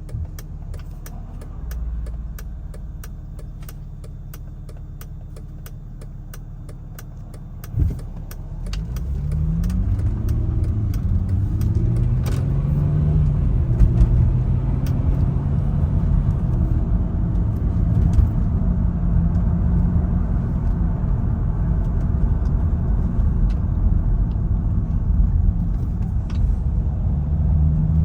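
2006 Mercedes SLK350's 3.5-litre V6 heard from inside the cabin, running quietly with light clicking for the first several seconds. A thump comes near the eight-second mark. The car then accelerates, the engine note rising and dropping back through several gear changes before settling into a steadier cruise.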